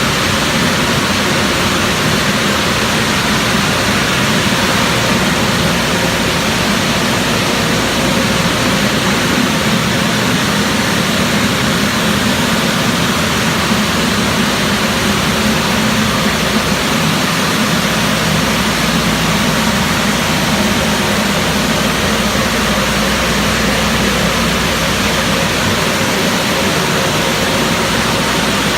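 AOK DynaWash touch-free automatic car wash at work: a loud, steady, even rushing noise with no breaks.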